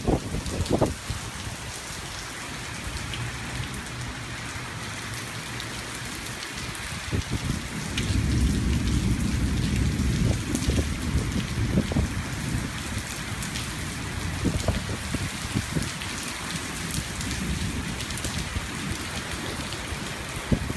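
Steady rain falling on surfaces, with a low rumble of thunder that swells about eight seconds in and rolls on for several seconds before easing off.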